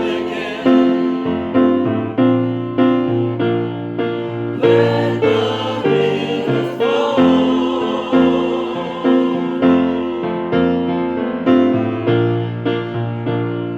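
Worship music: piano chords struck in a steady pulse, roughly one a second, with choir voices singing.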